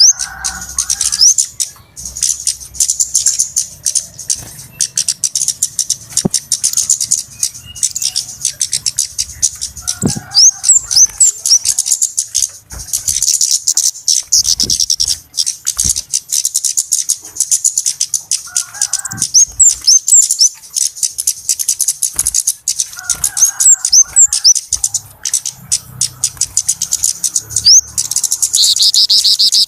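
Flowerpeckers (kemade / cabe-cabean) calling busily: a dense, continuous stream of rapid, high-pitched ticking notes and short rising chirps, with a few lower chattering phrases mixed in.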